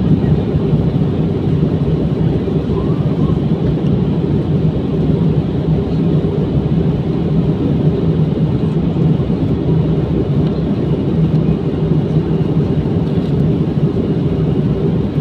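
Steady low rumble of an airliner cabin in flight, with engine and airflow noise that holds constant throughout.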